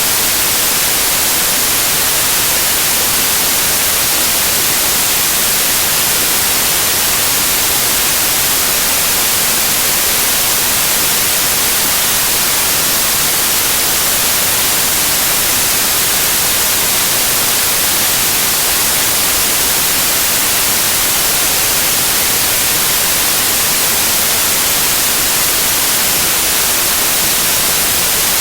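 Loud, steady white noise: an even, unbroken hiss, brightest in the treble.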